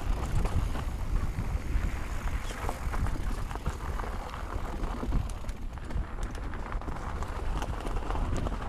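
Mountain bike rolling fast down a rough dirt trail: tyres on dirt and rocks and the bike rattling with many small knocks over bumps, with wind rumbling on the microphone.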